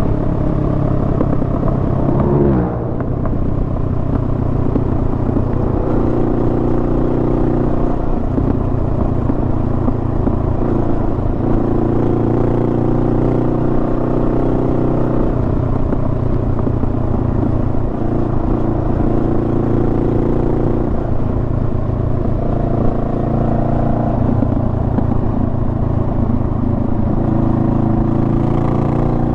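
Honda Rebel 500's parallel-twin engine running steadily on the road, with a sharp drop in revs about two and a half seconds in.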